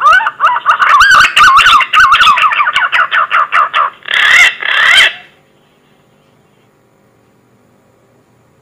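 Green pigeon (punai) call used as a hunting lure: a fast run of warbling whistled notes lasting about four seconds, then two longer warbled notes, ending about five seconds in.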